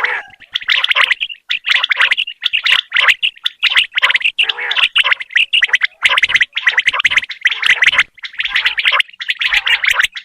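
Common quail calling in a loud, rapid, rasping stutter, a string of short bursts with brief gaps between them.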